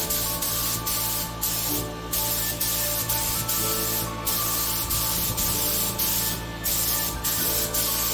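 Paint spray gun spraying a coating onto a fiberglass (FRP) bathtub in a steady hiss, cutting out briefly three times. Background music plays underneath.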